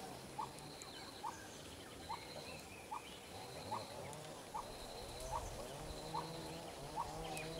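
Faint birdsong: a short rising call repeated about once a second, with a high pulsing trill that comes and goes, over a low steady hum.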